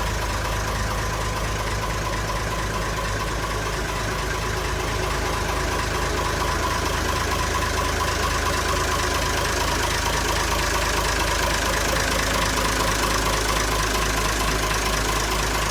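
Engine running steadily at idle, an even drone with a thin steady whine over it, growing slightly louder about five seconds in.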